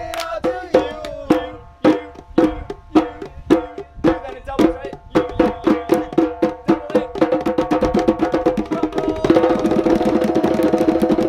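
A band playing: quick runs of struck, pitched percussion notes over drumming, thickening into a denser, more continuous passage about nine seconds in.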